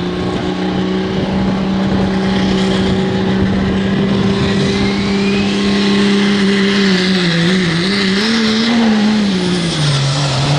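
Pro stock diesel pulling truck's engine under full throttle, holding a steady high engine note that wavers up and down about seven seconds in, then falls in pitch near the end.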